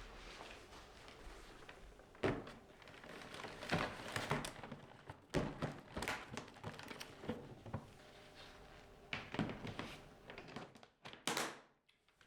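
A series of light knocks, taps and clicks of objects being handled and set down, about nine in all, with soft rustling between them.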